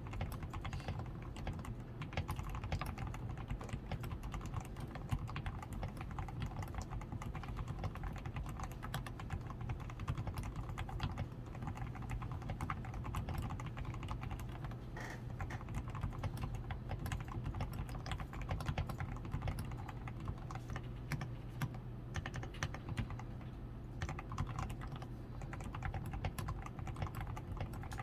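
Continuous typing on a DAREU A87 Pro mechanical keyboard, fully lubed with Krytox 105, with a tape-modded PCB, foam-reinforced switches, lubed stabilizers and XDA keycaps: a dense, unbroken stream of keystroke clacks.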